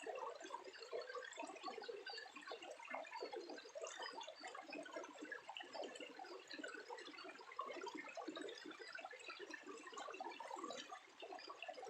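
Water trickling and gurgling, a steady irregular patter of small drips and splashes.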